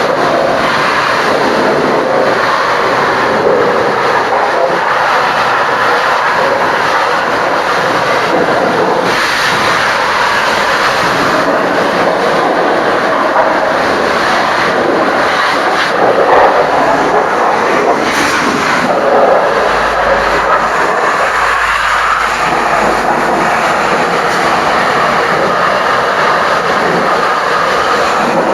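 High-pressure washer jet spraying water steadily onto a truck's bodywork, a loud continuous hiss that shifts slightly in tone as the jet moves over different surfaces.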